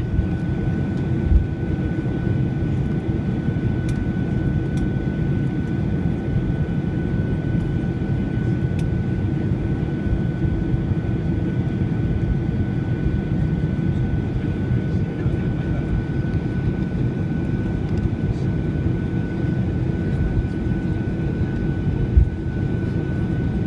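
Steady cabin noise of a Boeing 737-800 taxiing after landing: a low rumble and rush of air with a thin steady whine, and two short low bumps, about a second in and near the end.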